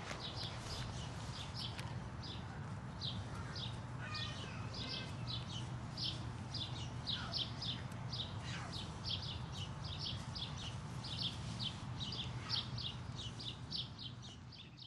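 A small bird chirping over and over, short high chirps about two or three a second, over a low steady hum.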